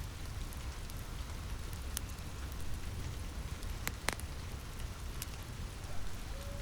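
Steady rain on a roof mixed with a crackling fireplace, with a few sharp pops standing out over the even patter and a low rumble underneath.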